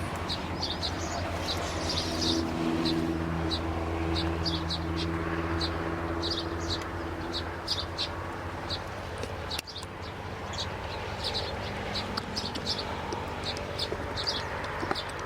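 Birds chirping outdoors: short, high chirps about twice a second. Under them runs a low steady hum, strongest in the first half, which fades about nine seconds in.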